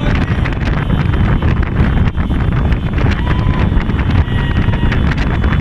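Heavy wind buffeting the microphone: a loud, steady low rumble that covers everything else.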